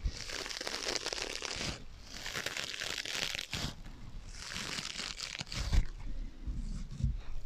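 Scratching on sponges with an echo effect added: about three long rasping scratch strokes, followed near the end by a few softer, duller bumps.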